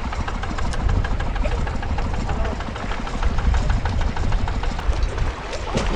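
Longtail boat engine running steadily at low speed, with an even, rapid chugging rhythm over a low rumble.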